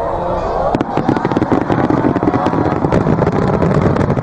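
Fireworks crackling: a dense, rapid run of small pops and cracks that starts about a second in and keeps going.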